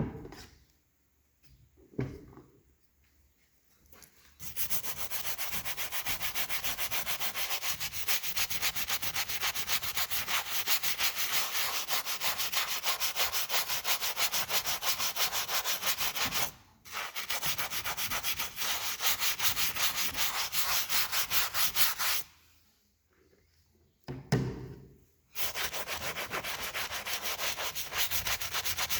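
A brush scrubbing the cracked intake manifold of a 4.3 Vortec marine engine, cleaning it for an epoxy repair. It goes in rapid, even back-and-forth strokes, stops briefly about halfway through, pauses for a few seconds near the end with a single knock, then starts again.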